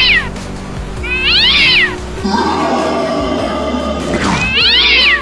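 A cat meowing over background music: short meows that rise and fall in pitch about a second in and near the end, with a longer, lower drawn-out cry between them.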